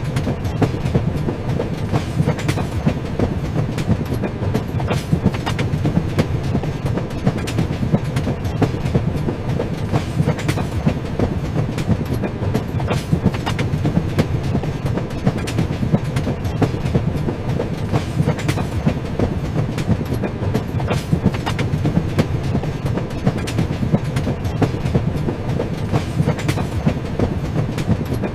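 A train running along the track: a steady low rumble with frequent sharp clicks of the wheels over the rails.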